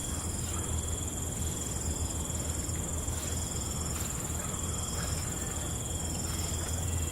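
Night insects, crickets, trilling steadily in a continuous high chorus, with shorter calls coming and going, over a steady low rumble.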